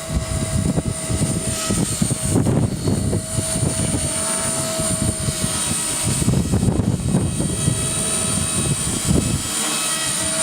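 Align T-Rex 250 electric RC helicopter flying, its motor and rotor giving a steady high whine. Strong wind buffets the microphone in gusts of low rumble throughout.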